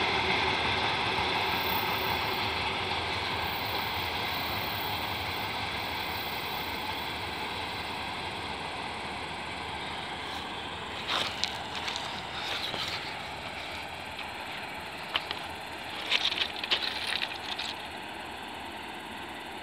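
Mixed freight train receding down the line, its rumble fading steadily. A few short knocks and rustles cut in about halfway through and again near the end.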